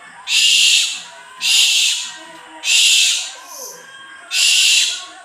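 An owl giving four harsh, hiss-like screeches, each under a second long, repeated at a steady pace.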